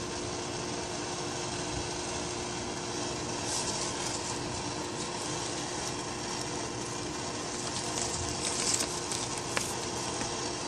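Heat gun running steadily with a blowing hiss and hum while it shrinks waterproof heat-shrink tubing over a low-voltage wire splice, with crinkly rustles of the wire and tubing being handled partway through and near the end.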